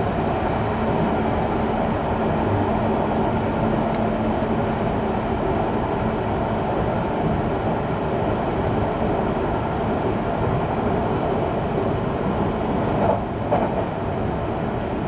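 JR Kyushu 883 series electric train running along the line, heard from inside a passenger car: a steady rolling rumble of wheels on rail.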